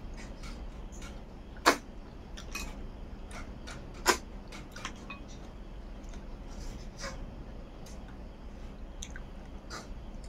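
Close-up eating sounds: chewing and mouth clicks while eating rice and snail curry by hand, with two louder sharp clicks about two and four seconds in.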